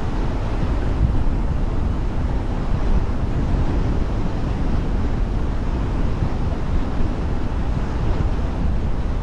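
Steady low rumble of wind and road noise from a car driving along at a constant pace.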